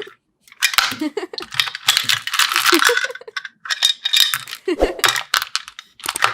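Small hard toy pieces clinking and rattling against each other in quick clattering bursts, with short pauses between them.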